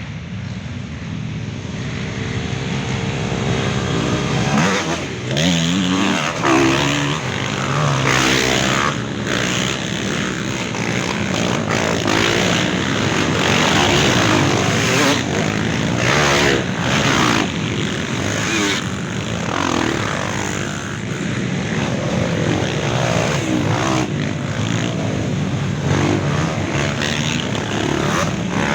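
A pack of trail motorcycles revving and riding off together, many engines rising and falling in pitch over one another.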